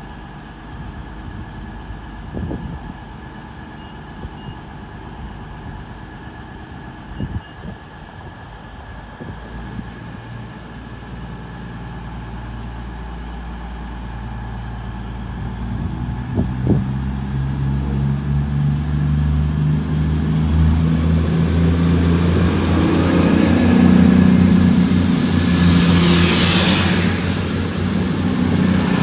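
Class 221 Voyager diesel-electric unit's underfloor diesel engines running at idle, then revving up about halfway through as the train pulls away from the platform, growing steadily louder. A burst of hiss comes near the end.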